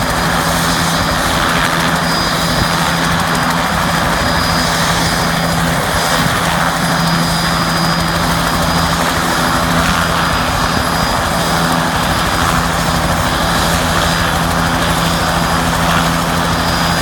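Helicopter running steadily and loudly: a constant low hum and a thin high whine over the rush of the turbine and rotors.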